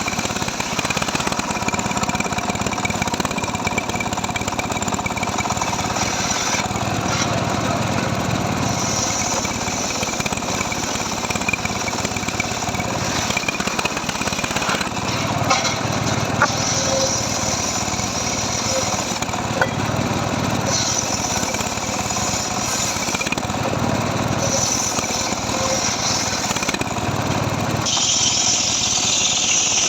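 Engine-driven wood saw running continuously and cutting dry mahogany, its note changing every few seconds as it bites into the wood and eases off.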